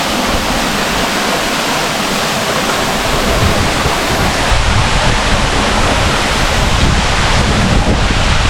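Small waterfall pouring into a pool, a steady loud rushing hiss. About three seconds in a deeper low rumble joins it.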